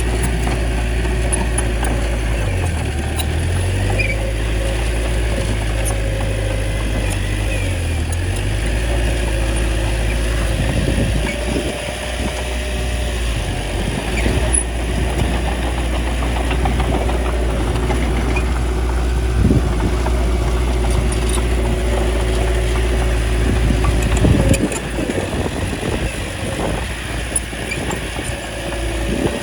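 Small bulldozer's diesel engine running steadily, with occasional knocks; the deep drone of the engine drops off near the end.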